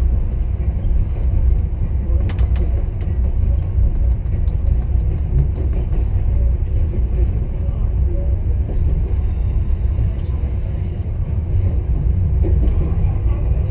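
Passenger train rolling along the rails: a steady low rumble with scattered clicks, and a brief high squeal about ten seconds in.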